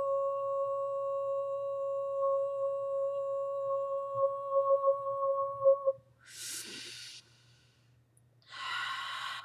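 A woman's sustained vocal toning: one steady, high held tone that warbles and breaks up in its last couple of seconds and stops about six seconds in. Then a quick breath in, and near the end a long breathy exhale.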